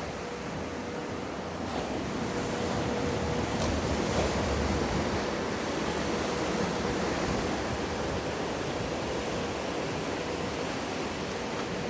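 Steady rush of breaking surf in a wave pool, swelling from about two seconds in, with a faint steady hum beneath it.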